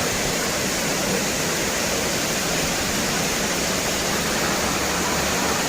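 Bakthang Waterfall: water falling and splashing onto rock in a steady rush of noise, even from start to finish.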